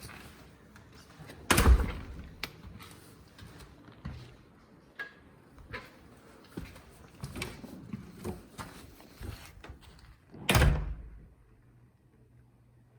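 Two loud thumps, about one and a half seconds in and again near ten and a half seconds, with scattered lighter knocks and clicks between them.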